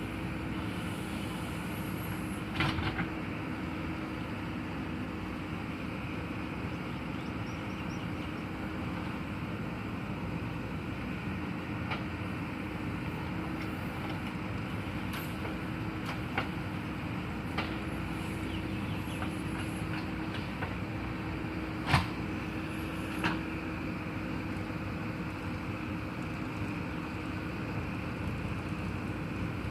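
Heavy machine engine running steadily, with a few sharp knocks, the loudest about three-quarters of the way through.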